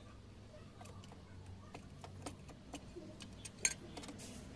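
Irregular light clicks and taps of hand tools and small parts being handled, with one sharper click about three and a half seconds in, over a faint steady low hum.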